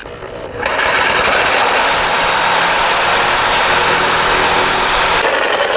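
Power saw cutting through a stainless-steel exhaust pipe: a loud, steady rasping grind with a thin high whine that rises in pitch about a second and a half in, then holds. It stops abruptly near the end. The stainless is hard enough to burn through several blades.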